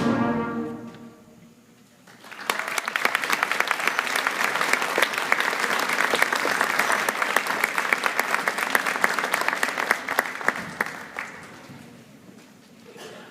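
A school band's final chord, with brass heard, dies away, then an audience applauds for several seconds before the clapping fades out.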